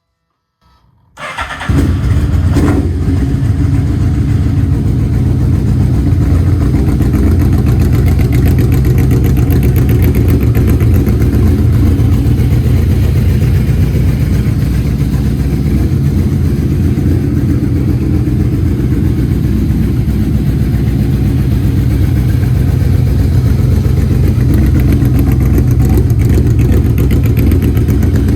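Yamaha V-Max's V4 engine starting about a second in, then idling steadily through an OVER slip-on muffler.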